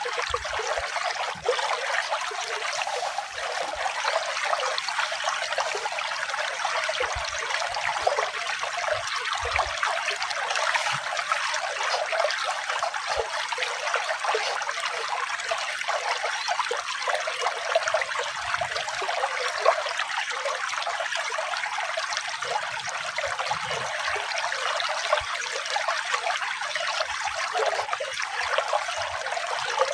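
Running water flowing steadily, an even bright rush of small water sounds with no deep rumble.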